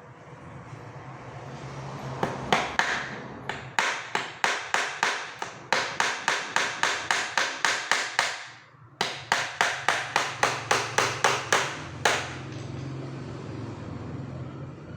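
Nails being driven into a wooden packing crate: runs of sharp, quick strikes, about three to four a second, stopping briefly and starting again several times.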